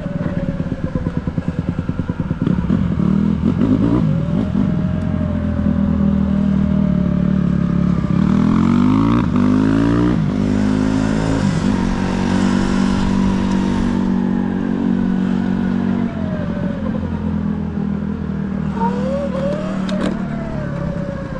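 Motorcycle engine running while riding, revving up with the pitch climbing about eight to ten seconds in, then holding steady.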